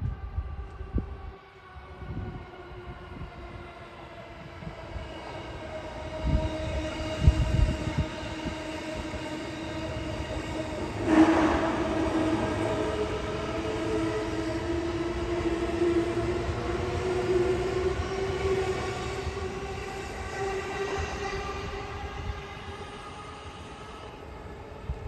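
Yokohama Line E233-series electric train passing close by, with a steady ringing tone over the rumble of wheels on rails. It is loudest about eleven seconds in and fades toward the end.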